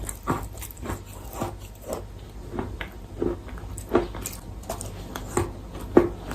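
Wet chalk being bitten and chewed close to the microphone: a run of irregular, sharp crunches, a couple each second.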